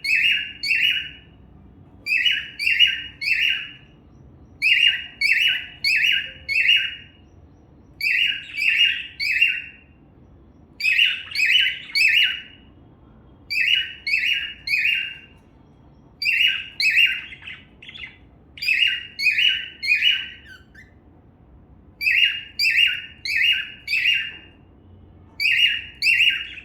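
Cockatiel singing in repeated phrases of three or four quick, sharp chirps. A new phrase comes about every two and a half to three seconds.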